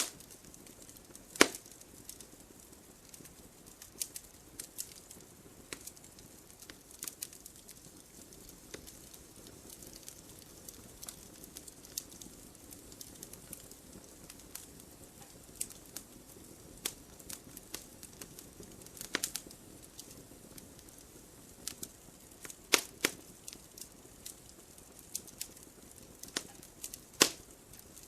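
Wood fire crackling: irregular sharp pops and snaps over a soft steady hiss, with a louder pop about a second in and a few more toward the end.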